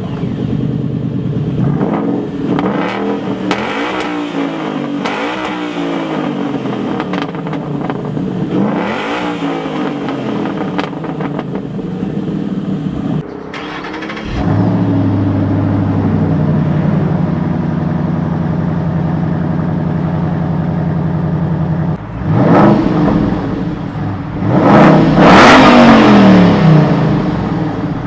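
Fifth-generation (S197) Ford Mustang engine revved over and over in the first half, each rev rising and falling in pitch, then idling steadily from about halfway. Near the end it is revved twice more, the second rev the loudest.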